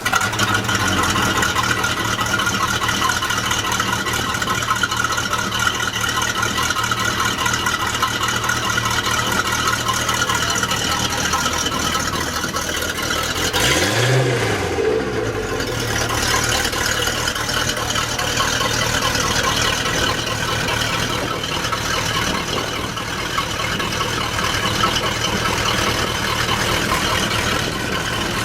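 Sea Ray 240 Sundeck's sterndrive engine running steadily with a hiss of wind and water over it. About halfway through, the engine pitch briefly rises and falls.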